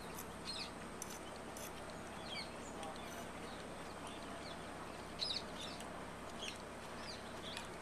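Faint bird calls: short chirps scattered every second or so over steady background noise.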